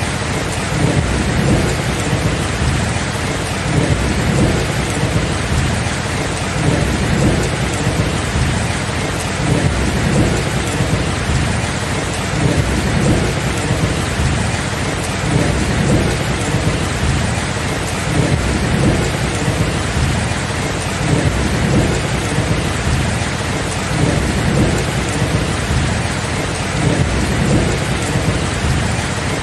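Thunderstorm: steady rain with low thunder rumbling continuously underneath, swelling and fading.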